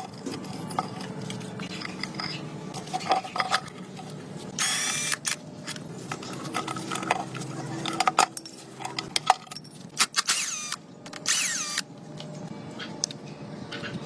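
Workshop tool sounds: metal tools and parts clicking and clinking, with a few short whirring bursts of a power tool.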